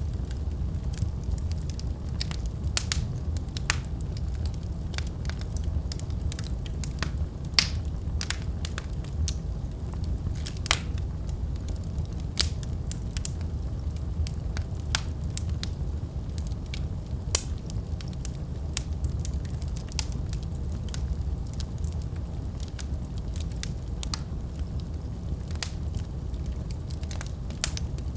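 Wood fire burning in a fireplace: a steady low rumble of flames with irregular crackles and a few louder pops of the burning logs.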